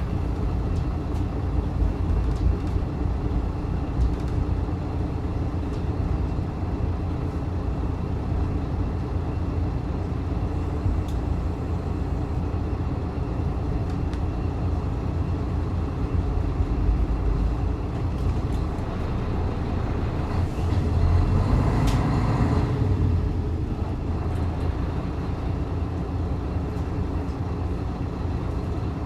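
Running noise heard from inside a diesel railcar under way: a steady low rumble of engine and wheels on rail, with scattered faint clicks and a louder swell of noise about twenty seconds in.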